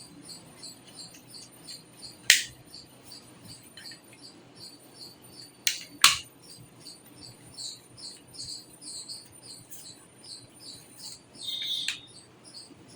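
High-pitched chirping repeating about three times a second, from a small animal in the background. Sharp clicks cut through it, with two loud ones about two and six seconds in, and a short scrape near the end.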